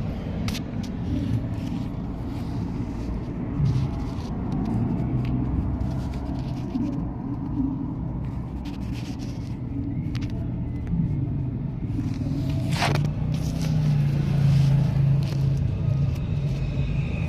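A motor vehicle's engine running with a steady low rumble, its hum rising slightly in pitch about two-thirds of the way through and getting louder near the end, with a couple of sharp clicks.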